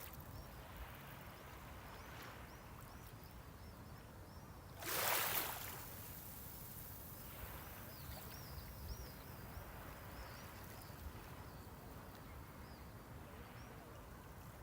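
Small sea waves washing onto the shore over a steady low surf hiss, with one louder wave breaking about five seconds in.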